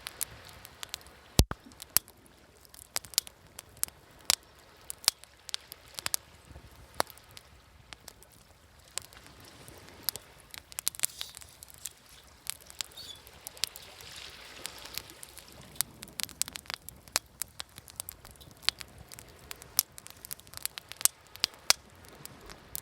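Wood bonfire crackling, with frequent sharp, irregular pops and snaps, over a soft wash of waves that swells about halfway through.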